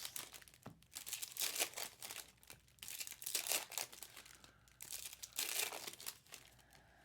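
Foil baseball card pack wrappers crinkling and tearing in irregular bursts as packs are ripped open and handled.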